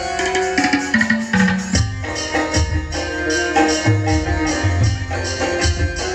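Indian devotional folk music: a hand drum beating a fast rhythm with jingling percussion over a held melody line.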